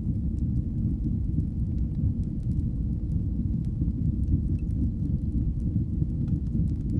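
Wood fire burning in a fireplace: a steady low roar of the flames with faint, scattered crackles and pops.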